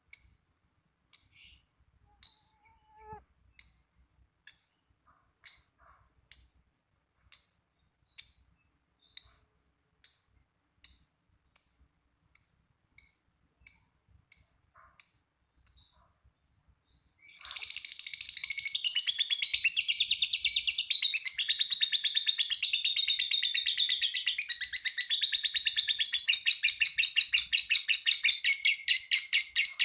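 Lovebird calling: single sharp high chirps about once a second, then about seventeen seconds in it breaks into a long, loud, rapid chattering trill (the 'ngekek' song) that runs on without a break.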